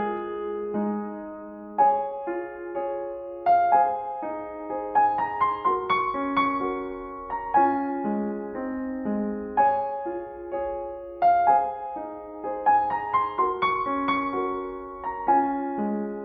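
Slow, gentle solo piano music: soft notes and chords struck one after another, each left to ring and fade.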